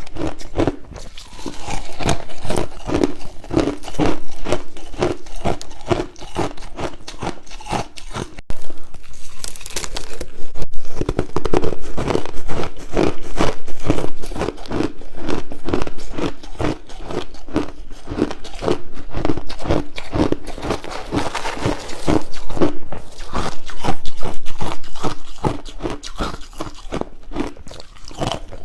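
Crushed ice being bitten and chewed close to the microphone: a steady run of crunches and crackles, several a second.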